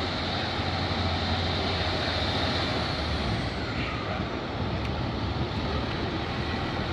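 Diesel train standing at the platform with its engine running: a steady low hum under even noise.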